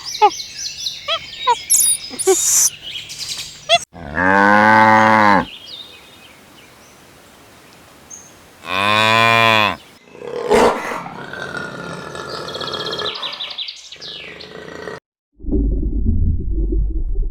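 Cow mooing twice, each moo about a second and a half long, about four and nine seconds in, with high chirping animal calls before them and a low rumbling noise near the end.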